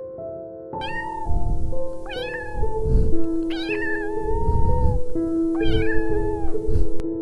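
A domestic cat meowing four times, the third meow drawn out longer than the others, over soft piano background music.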